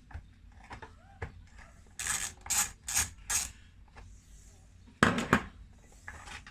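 Small metal screws and hand tools clinking and rattling on the bench as the chainsaw's screws are taken out and put down: a few light clicks, four short scraping rattles, then a louder clatter near the end.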